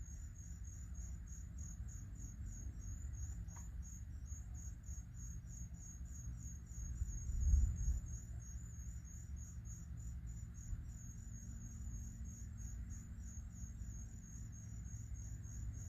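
Crickets chirping in a fast, even pulse. A low rumble swells briefly about halfway through.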